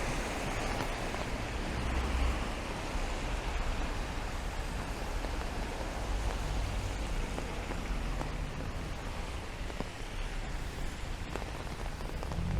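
Steady rain falling on a city street, an even hiss with a few scattered drop ticks, over a low rumble of traffic that swells and fades.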